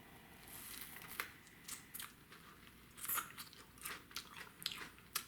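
A person biting into and chewing a raw green tomatillo: faint, irregular crunching and wet mouth clicks.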